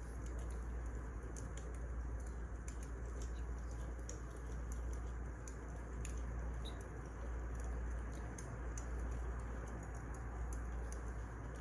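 Wood fire crackling: irregular sharp snaps and pops scattered over a steady hiss and low rumble.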